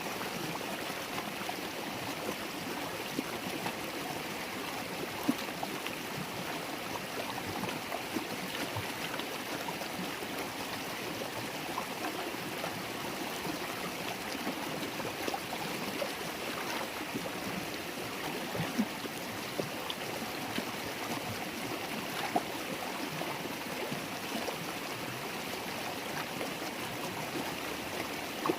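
River water flowing and babbling over stones, a steady rushing and gurgling with small splashes scattered through it.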